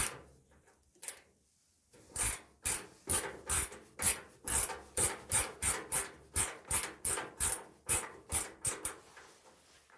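A sharp click, then a steady run of rubbing or scraping strokes, a little over two a second, for about seven seconds before stopping.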